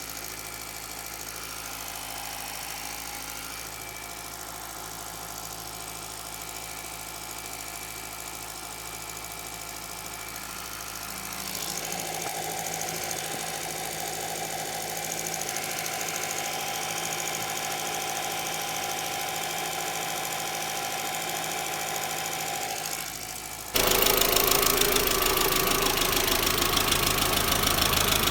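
Volkswagen 1.8T turbocharged four-cylinder engine idling steadily, run up after a cylinder head and head gasket replacement. It grows somewhat louder about 11 seconds in, then much louder all at once near the end.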